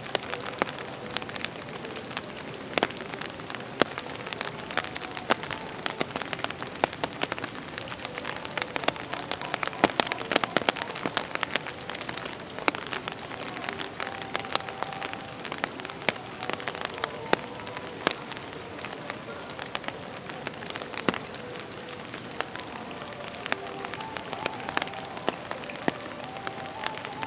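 Steady rain falling and splashing, with many sharp ticks of individual drops.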